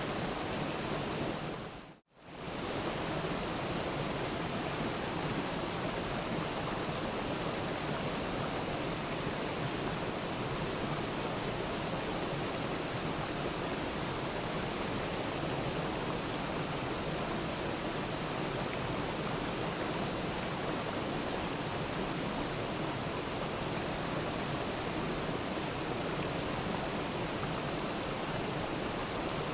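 Waterfall rushing steadily. About two seconds in it fades out to silence for a moment and straight back in.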